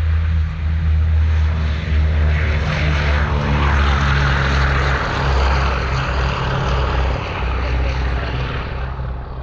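Propeller-driven airplane flying past: a steady low engine drone that swells to its loudest about four to five seconds in, then fades toward the end.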